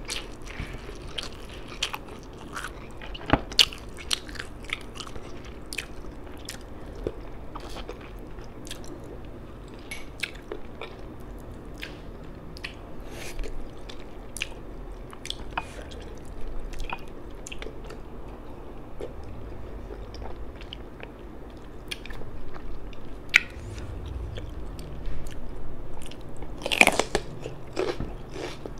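Close-up mouth sounds of a person eating rice and fish by hand: chewing and lip smacks, many short wet clicks scattered throughout, with one louder, longer mouth sound near the end.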